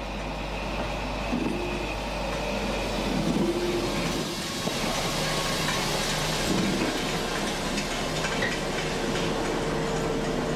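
Wheels of the ET 91 glass-roofed railcar rolling slowly over points and rail joints while it is shunted, coupled to a class 212 diesel-hydraulic locomotive whose engine hums underneath. The noise grows slowly louder as the train passes.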